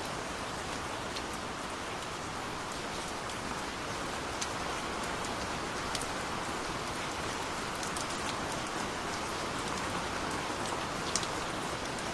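Steady gentle rain falling on a surface, a continuous even hiss with scattered individual drops ticking through it.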